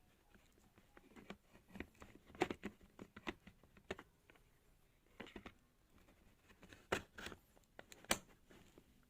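Irregular light clicks, taps and rustling of something being handled, loudest about 2.5 s in and twice near the end; no motor is running.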